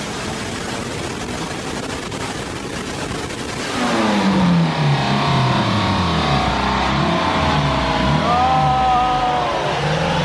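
Turbocharged Honda Odyssey minivan engine running on a chassis dyno, with the rollers turning. It gets clearly louder about four seconds in, its pitch falling and rising, with a short whistle-like tone near the end.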